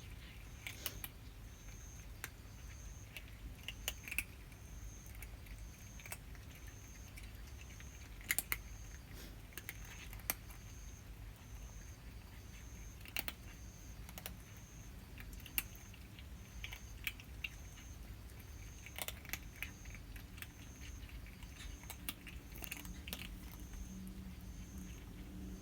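Cats eating dry cat food: irregular crisp crunches and clicks of kibble being chewed. A faint high chirp repeats evenly about once a second behind it.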